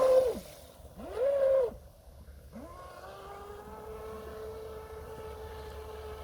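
Traxxas RC boat's motor whining under throttle, then cut off with its pitch falling just after the start. A short throttle blip rises and falls about a second in, and from about two and a half seconds the motor runs again steadily, quieter.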